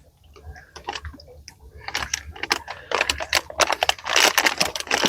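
A bag of M&M's being opened and handled: plastic wrapper crinkling and small candies clicking and rattling, sparse at first and growing into a dense, louder run of clicks in the second half.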